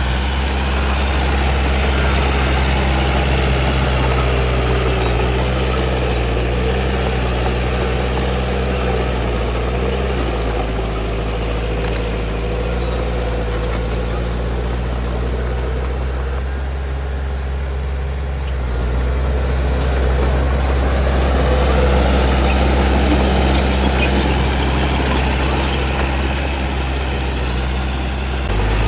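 Heavy construction machine's diesel engine running steadily, easing off partway through and picking up again about twenty seconds in.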